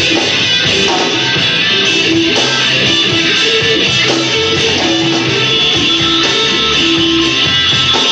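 Rock band playing live, led by guitar, with a melody line of held notes over a dense, steady backing.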